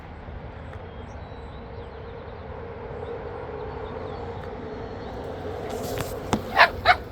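A dog gives two short, sharp barks near the end, over a steady low background rumble.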